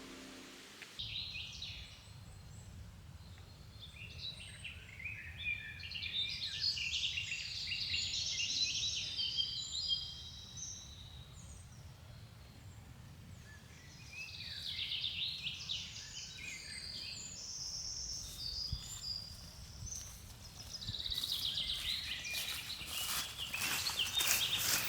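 Songbirds singing outdoors: several birds chirping and trilling in bursts with short lulls, over a steady low rumble. A few sharp clicks come near the end.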